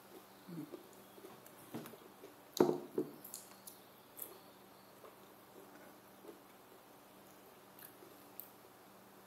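Close-up eating sounds from a person eating a meal with their fingers: wet chewing and lip smacks with scattered small clicks. The loudest cluster of smacks and clicks comes a little over two and a half seconds in, then the sounds go softer.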